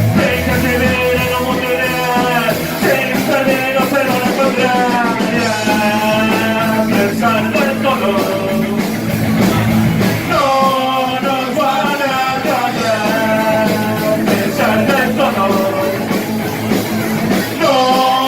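Rock music: a band playing, with a melodic lead line that bends and wavers in pitch over the backing.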